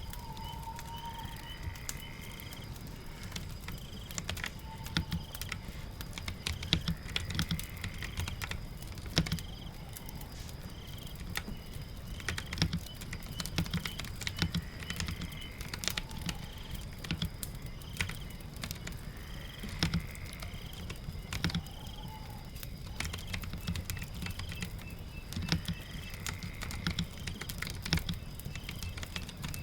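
Keyboard typing in irregular bursts of keystrokes over a steady background of rain. Short high chirps repeat throughout.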